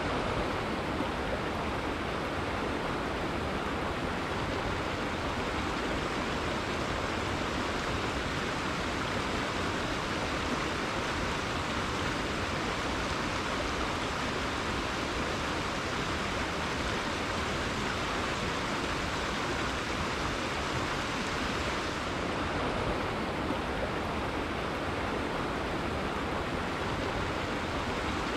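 River water flowing and rushing in a steady, even stream.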